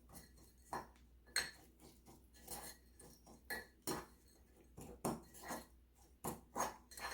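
A fork scraping and clinking against a bowl in short, irregular strokes, working soft butter into a crumbly oat and brown sugar topping.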